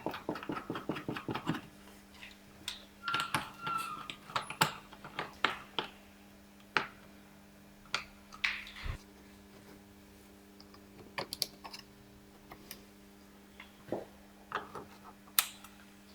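Irregular sharp plastic clicks and knocks from the lower plastic underbody splash shield being fitted and clipped into place, with a quick flurry of clicks at the start. A steady low hum runs underneath.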